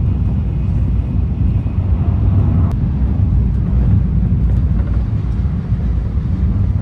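Steady low rumble of a Shinkansen bullet train running at high speed, heard inside the passenger cabin.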